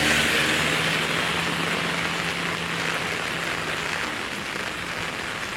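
Steady hiss of falling or rushing water, loudest at first and slowly easing, with a faint low hum underneath.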